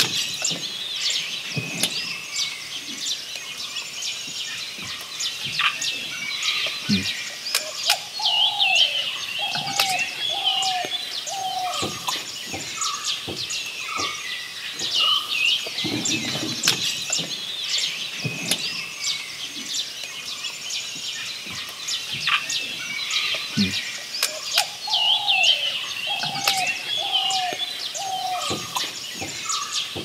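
Wild birds calling and chirping together, with many high chirps and a lower run of four or five curved whistled notes heard twice. Scattered sharp clicks sound throughout.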